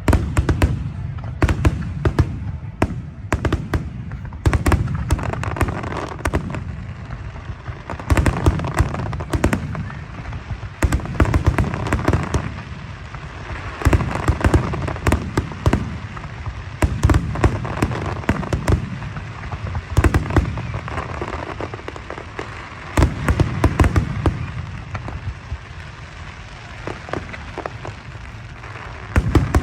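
Fireworks display: shells bursting in rapid volleys of sharp bangs, low booms and crackle, coming in waves every few seconds, with a lull near the end.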